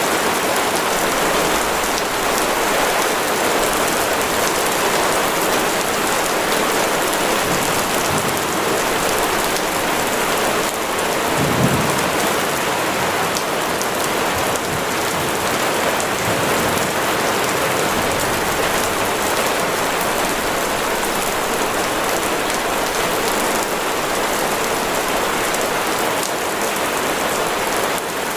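Heavy rain falling steadily, with a short low rumble of thunder about twelve seconds in.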